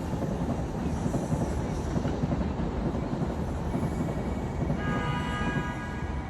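Train running, a steady rumble of wheels on rail. A pitched tone made of several steady notes comes in near the end.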